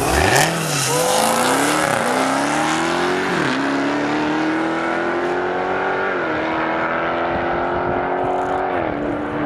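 Dodge Hellcat and Cadillac CTS-V drag race launch: a loud burst off the line, then engine pitch climbing through quick upshifts about one, two and three and a half seconds in before holding high as the cars run down the strip at full throttle.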